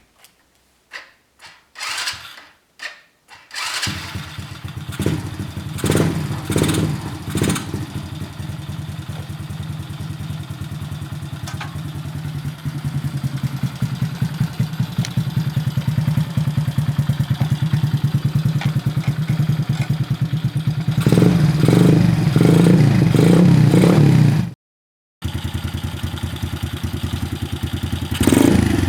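Honda Super Cub's horizontal single-cylinder four-stroke engine, bored up to 110cc with a Clipping Point kit, starting after a few knocks and then idling with quick throttle blips. Near the end it is revved harder several times.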